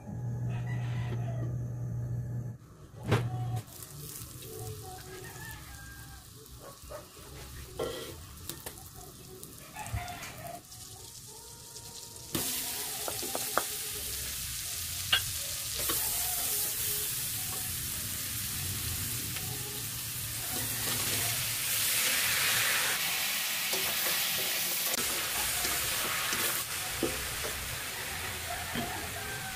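Butter, sliced onions and whole shrimp frying in a wok, sizzling steadily while a wooden spatula scrapes and stirs. The sizzle jumps louder about twelve seconds in.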